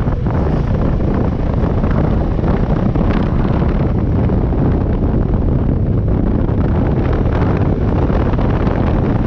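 Loud, steady wind rushing over the microphone on a motorcycle ridden at speed, with the bike's running noise underneath.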